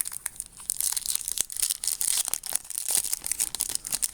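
Foil trading-card pack wrapper being torn open and crinkled by hand: a dense run of sharp crackles and rustles.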